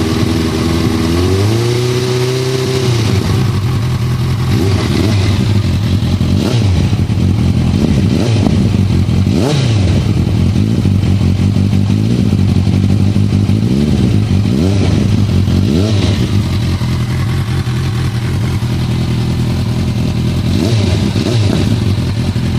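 2008 Suzuki GSX650F's inline-four engine running through a Scorpion Red Power exhaust with the dB killer removed. It idles with a steady low note. About two seconds in the revs rise and fall once, and then come a series of short throttle blips.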